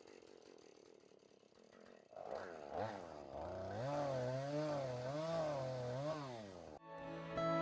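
Chainsaw running at speed, its pitch wavering up and down, starting about two seconds in and cutting off abruptly near the end. Guitar music begins just after it stops.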